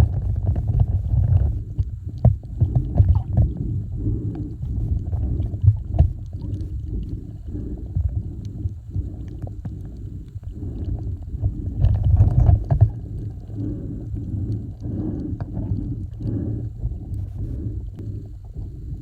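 Muffled, low rumbling water noise with irregular surges and scattered knocks, from a kayak being paddled through the water.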